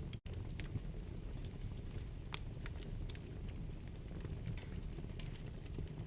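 Wood fire burning in a fireplace: a steady low rush of flames with scattered sharp crackles and pops from the burning wood. The sound drops out for a split second just after the start.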